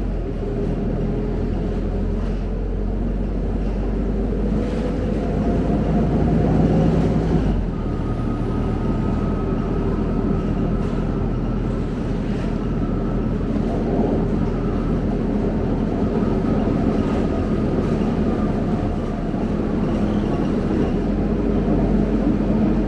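Scania K270UB city bus's five-cylinder diesel engine running under way, with steady road and cabin noise. A whining engine note climbs, then changes abruptly about seven seconds in, as with a gear change.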